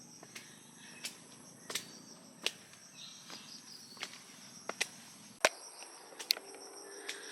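Insects, crickets among them, trilling steadily in high thin tones, with sharp footstep taps at a walking pace about every second.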